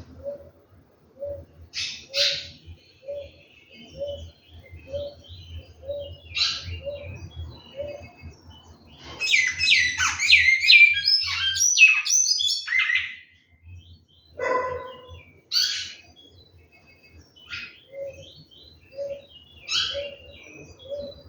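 Bicudo (large-billed seed finch) chirping, then about nine seconds in a rapid, dense burst of song lasting some four seconds, followed by more scattered chirps.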